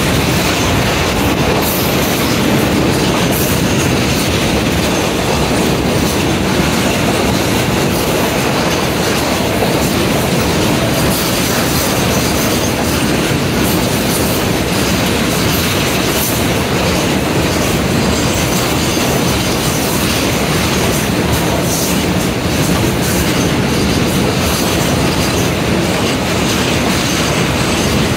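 Steel wheels of a freight train's BTPN tank wagons rolling past at close range: a steady, loud rumble with irregular clicks and clatter throughout.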